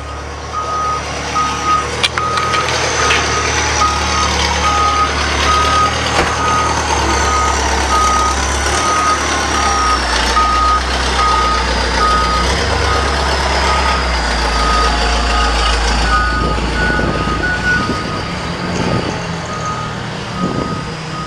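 A heavy vehicle's reversing alarm beeping in an even rhythm over its engine's low, steady running. A second, higher-pitched beep joins briefly near the end.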